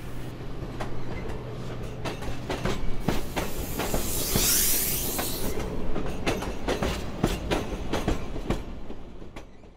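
A train running on rails, its wheels clicking over the rail joints, with a burst of hissing about four to five seconds in. The sound fades out near the end.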